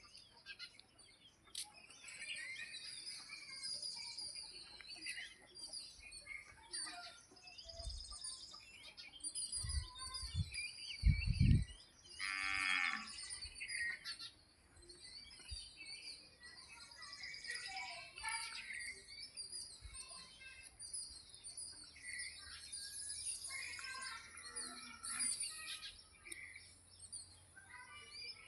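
Small birds chirping and twittering throughout, many short high calls overlapping. About midway there is one brief lower animal call, with a few dull thumps just before it.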